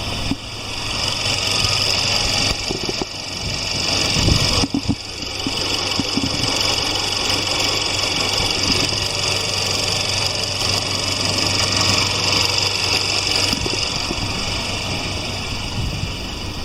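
Mercedes-Benz A180 (W176) M270 turbocharged four-cylinder petrol engine idling steadily.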